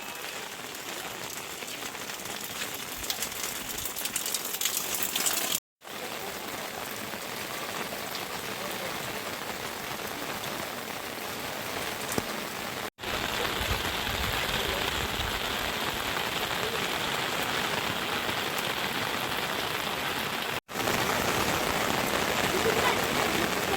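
Heavy rain falling steadily, a dense hiss with separate drops ticking close by in the first few seconds. The sound drops out abruptly three times where the shots change, and the rain is a little louder in the later shots.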